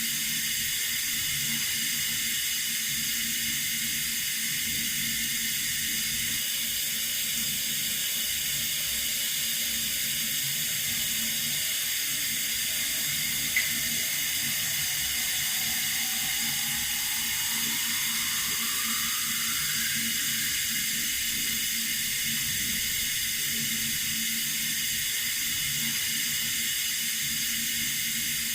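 Water running steadily from a tap, a constant even hiss. There is one brief click about halfway through.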